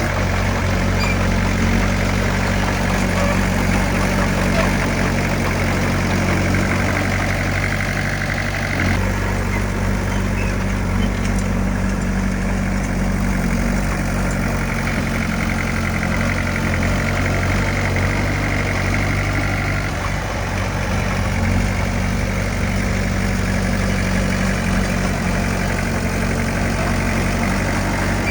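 Diesel engine of heavy earthmoving equipment running steadily, its note shifting about 9 seconds in and again around 20 seconds as the load changes.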